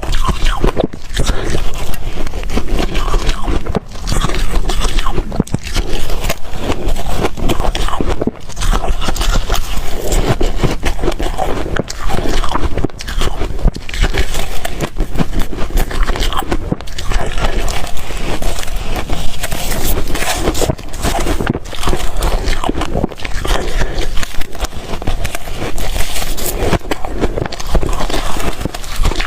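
Ice being bitten and chewed, a steady run of crunching and crackling with only brief pauses.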